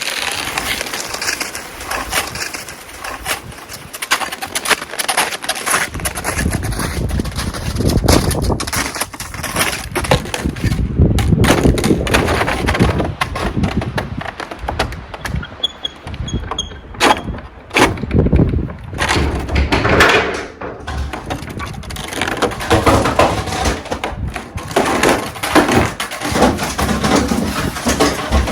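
Strong gusting wind buffeting the phone's microphone, a loud, uneven rumble and crackle that swells and drops with each gust.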